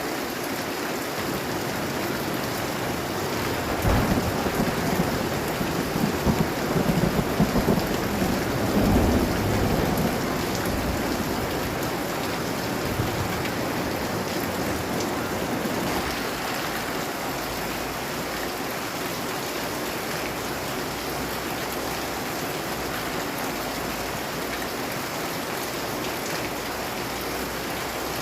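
Steady heavy rain, with a low roll of thunder that swells about four seconds in and fades out by about eleven seconds in.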